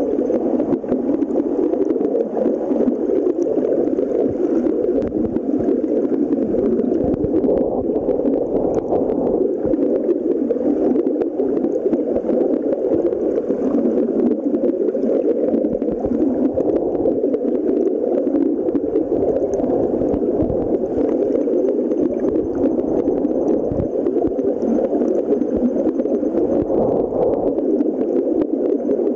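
Stream water rushing and gurgling steadily, a dull, even sound with little treble.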